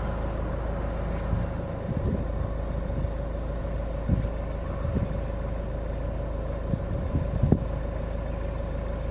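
Car engine idling steadily with a constant hum, and a few short low knocks.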